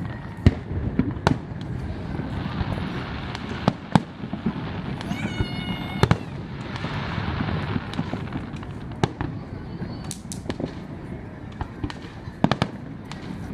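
Fireworks display: repeated sharp bangs at irregular intervals over a continuous rumbling background, with a brief high whistle about five seconds in.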